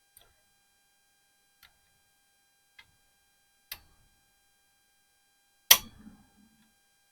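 Scattered sharp clicks and knocks, five in all, the loudest about two-thirds of the way in: hand work with tools on small metal parts while a scooter's wheel speed sensor is being adjusted.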